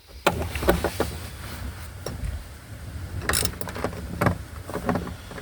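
Scattered clicks and knocks of parts and trim being handled inside a car's stripped interior, with one louder clatter a little past the middle.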